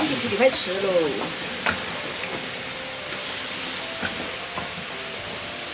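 Food sizzling as it is stir-fried in a large wok, with a metal spatula scraping and clicking against the pan now and then.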